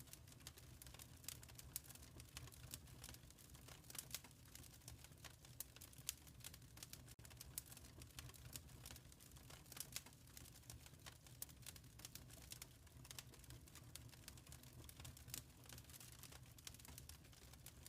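Wood fire crackling in a fireplace: quiet, irregular pops and snaps several times a second over a steady low rumble.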